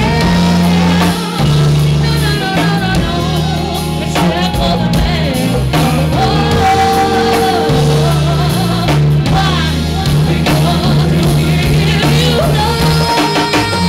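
Live band music: a singer holding long, wavering notes over a drum kit and low instruments.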